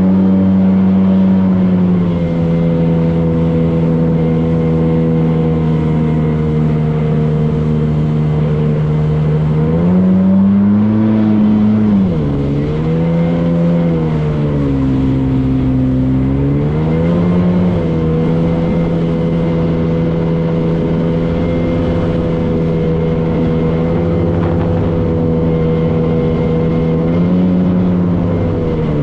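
Motorboat engine running at a steady pitch, which rises and falls several times in the middle as the throttle is opened and eased back, then settles steady again.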